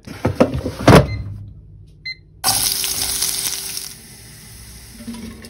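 A few clattering knocks, then from about two and a half seconds in, sliced onions and red peppers sizzling in a frying pan, a steady hiss that fades after a second or so.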